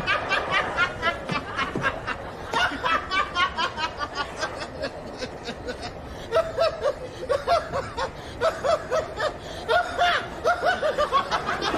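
A person snickering and chuckling in quick, repeated bursts of stifled laughter.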